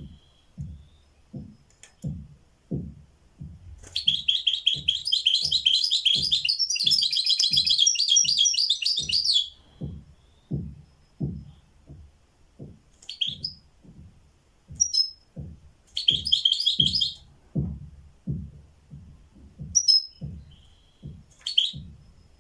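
A caged songbird singing: a long, fast trilled phrase a few seconds in, then shorter bursts of song and single calls. Under it runs a steady series of soft low thuds, about one and a half a second.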